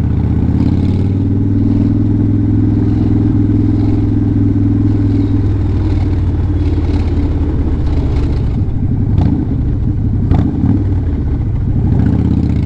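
Harley-Davidson Sportster's air-cooled V-twin engine running steadily under way while riding, with a couple of brief clicks in the second half.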